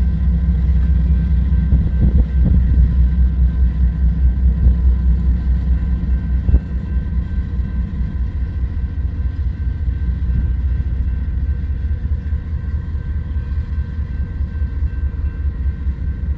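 Freight train rolling past: a loud, steady low rumble with faint steady tones above it and a single sharp knock about six and a half seconds in, easing slightly in the second half.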